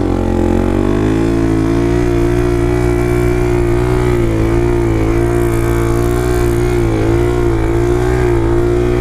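Dirt bike engine running at a fairly steady speed while being ridden, its pitch wavering gently up and down.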